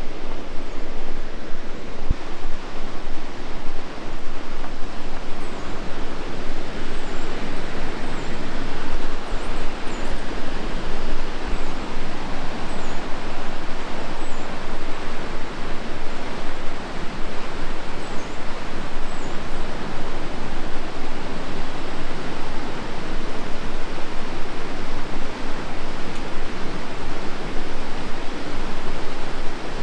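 Rushing whitewater of the Tallulah River, a loud, steady rush that does not let up.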